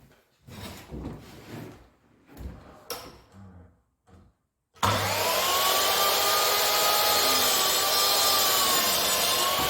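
Light knocks and rubbing of a wooden board being handled, then about five seconds in a power mitre saw starts up with a rising whine and runs steadily to cut a 45-degree mitre in the skirting, its pitch wavering slightly.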